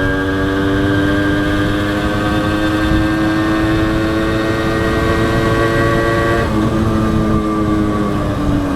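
Honda CDI H100S motorcycle's single-cylinder four-stroke engine running under way, its pitch rising steadily for about six seconds, then dropping suddenly and falling slowly toward the end.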